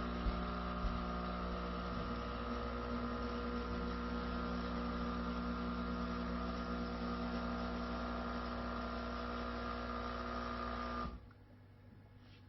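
De'Longhi Eletta Explore espresso machine running steadily with a humming motor note, then cutting off abruptly about eleven seconds in.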